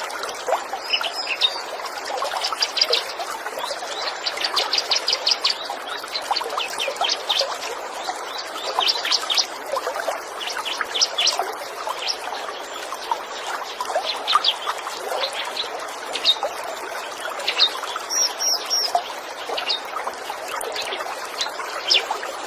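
Small songbirds chirping in quick high notes and short rapid trills, over a steady trickle of running water.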